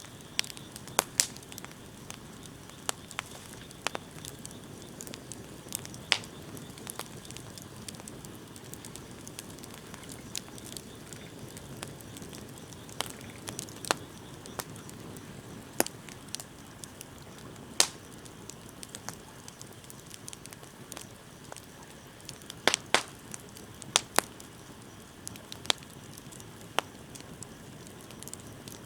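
Wood fire burning with a steady low hiss and sharp, irregular pops and crackles from the burning wood, a few louder snaps among them.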